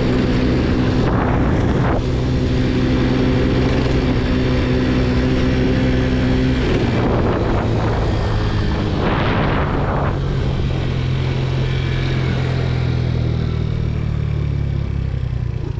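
50cc Boom PYT scooter engine running under way with a steady pitch that drops about seven seconds in and sits lower near the end. A few brief rushing sounds come and go over it.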